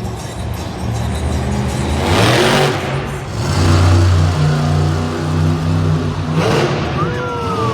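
Monster truck engine running and revving, stepping up and down in pitch, with two louder rushes of noise, about two seconds in and again near the end.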